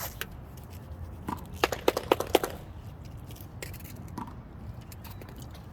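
Sharp pops of a small rubber handball being struck and bouncing: a quick run of four about a second and a half in, with a few single knocks around it.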